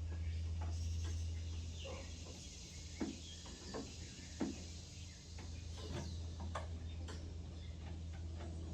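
Scattered light clicks and knocks of hands handling parts and cables while working on a car, over a steady low hum.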